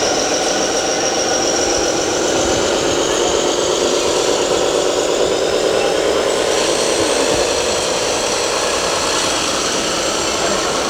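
Radio-controlled model trucks running: a steady whine of small motors with a held engine-like hum underneath.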